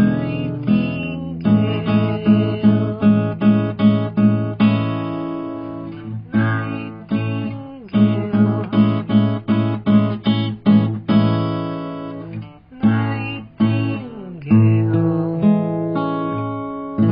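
Acoustic guitar playing an instrumental passage, with a quick run of repeated strummed chords, a pause, then another run and some slower chords near the end.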